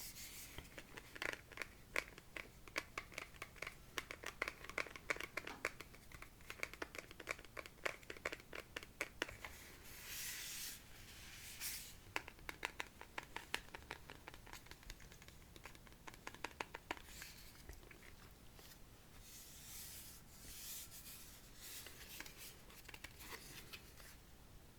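Close-miked wet mouth sounds: rapid, irregular wet clicks and smacks of tongue and lips, with a couple of short breathy hisses about ten and twenty seconds in.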